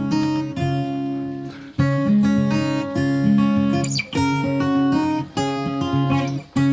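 Acoustic guitar background music: strummed chords, with a few brief breaks between phrases.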